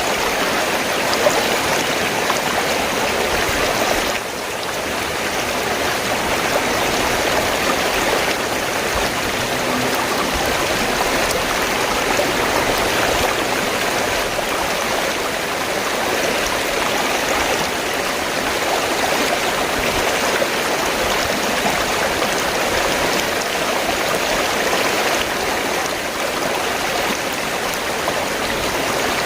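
River water flowing and rushing steadily, an even wash of water noise that dips slightly about four seconds in.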